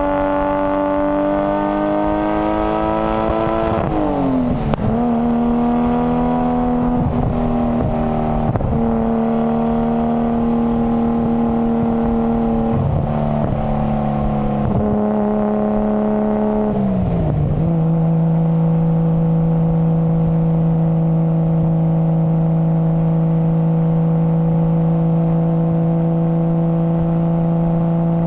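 Nissan Skyline GT-R R33's RB26DETT twin-turbo straight-six running under load. It climbs in revs, then drops in pitch at a gear change about 4 seconds in. It holds steady with a few brief throttle lifts, drops again at a second gear change near 17 seconds, and then settles into a steady cruise.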